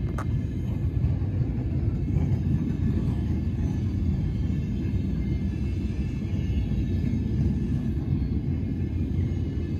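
A VR night train rolling slowly past, its car-carrier wagons going by, making a steady low rumble with a single sharp click just at the start.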